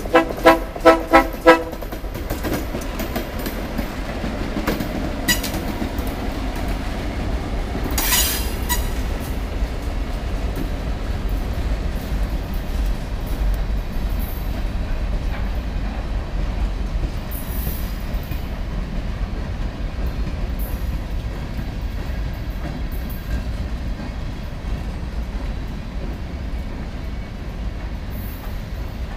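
Freight train passing with a steady low rumble and clattering wheels. It opens with five quick, short horn blasts, and about eight seconds in there is a brief high metallic screech.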